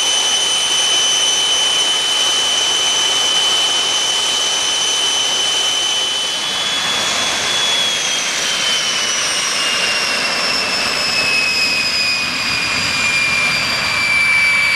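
Rolls-Royce Nene II turbojet running with a steady high whine over a rushing roar. About halfway through, the whine begins to slide slowly lower as the engine runs down.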